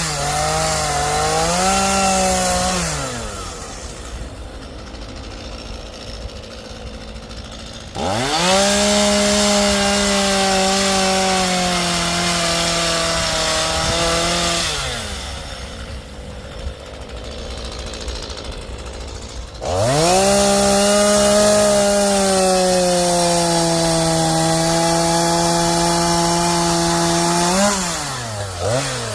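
Two-stroke chainsaw cutting into cedar, held at full throttle in three long bursts and dropping back to idle between them, with a quick dip and re-rev near the end.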